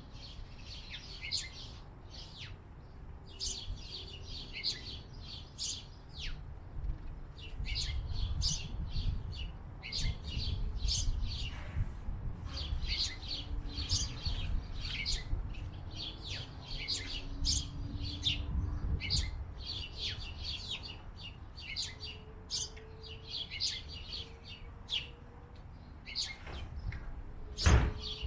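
Small birds chirping in quick, busy bursts of high notes, with a low rumble underneath and one sharp knock near the end.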